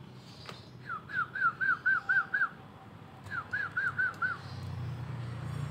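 A bird calling in two quick runs of short, clear whistled notes, about seven and then five, with a short pause between them. A low rumble builds near the end.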